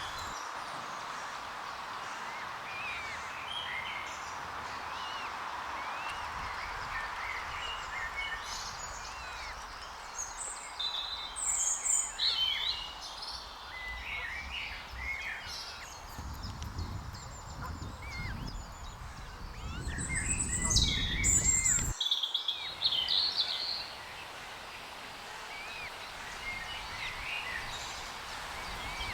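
Several birds chirping and calling in short, scattered phrases over a steady background hum. About halfway through, a low rumble rises for several seconds and then cuts off.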